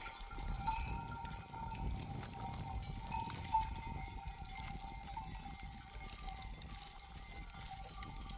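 Sheep bells clanking and ringing irregularly on a moving flock, over a low rumble.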